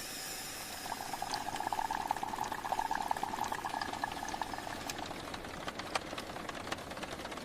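Liquid bubbling or running with a steady hollow tone that fades out about five seconds in, over a haze of many small light ticks.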